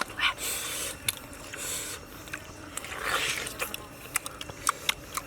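Chewing and crunching on grilled duck: irregular crisp clicks and crackles.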